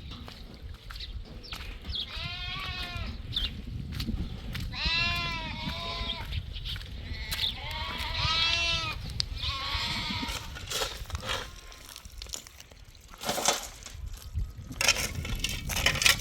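Goats bleating, about five wavering calls in the first two-thirds, over a steady low rumble. A run of sharp crunching knocks follows near the end.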